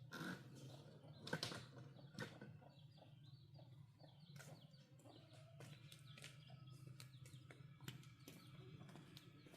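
Faint scattered clicks and knocks over a low steady hum.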